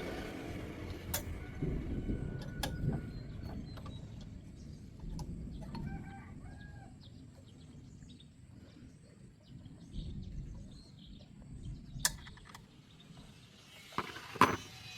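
A chicken clucks faintly about six seconds in, over a low steady rumble. A few sharp clicks and knocks come through, the loudest near the end.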